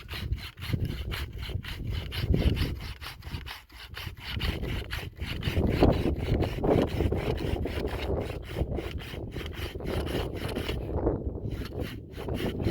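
Rapid rhythmic rasping strokes, about four or five a second, of something being rubbed or sawn back and forth.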